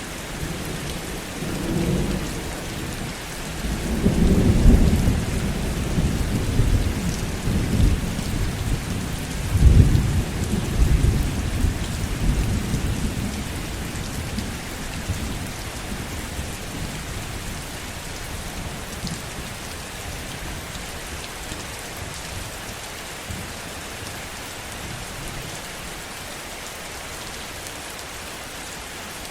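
Steady heavy rain with thunder: low rolling rumbles swell about four seconds in and again around ten seconds, then die away, leaving the rain alone.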